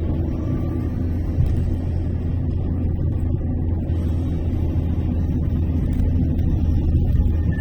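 Car driving at steady speed: an even, low rumble of engine and tyre noise with no change through the stretch.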